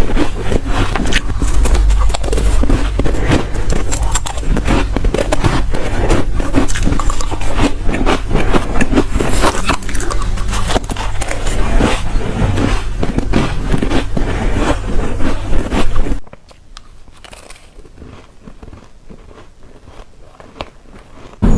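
Close-up crunching of soft, frosty white ice chunks being bitten and chewed: a rapid, dense run of crisp crunches. About 16 seconds in, the crunching stops and it goes much quieter for about five seconds, until biting starts again at the very end.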